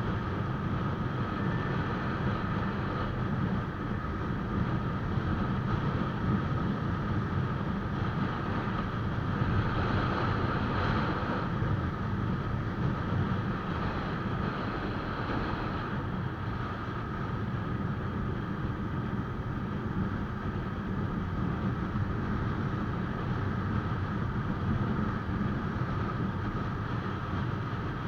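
Motorcycle riding at highway speed: a steady rush of wind and road noise with the engine's drone underneath, unbroken throughout.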